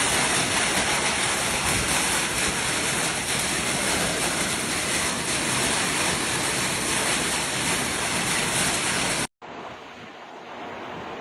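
Severe thunderstorm: a loud, steady rush of heavy precipitation and wind. About nine seconds in it cuts off abruptly and a quieter rush of the same kind follows.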